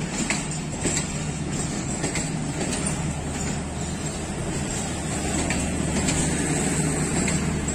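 Pakistan Railways passenger coaches rolling slowly past on arrival: a steady rumble with a low hum, and wheels clicking and knocking irregularly over the rails.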